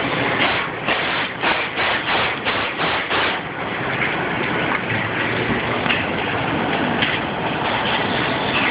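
Pickup truck running loudly, a noise the shop is working to quiet. A quick run of knocks, about three a second, for the first three seconds or so, then a steady rumble.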